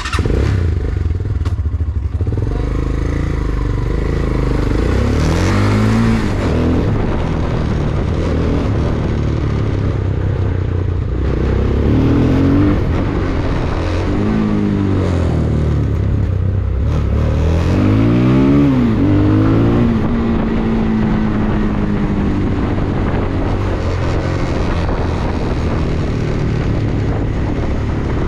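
Vento Alpina 300 motorcycle engine under way on a ride. Its pitch rises and falls several times as it accelerates and eases off through the gears, over steady riding noise.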